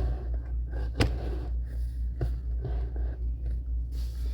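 A steady low hum runs under handling noises: one sharp knock about a second in, then two fainter taps a little after two seconds.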